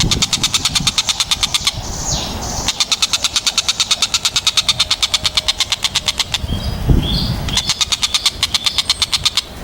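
Tengkek buto (collared kingfisher) calling in rapid, harsh rattling trills of about ten notes a second, three runs in a row: a short one, a long one of nearly four seconds, then another short one. A brief low rumble comes between the second and third runs.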